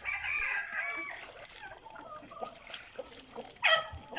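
Farmyard poultry calling: a pitched call of about a second at the start, then a much louder call near the end.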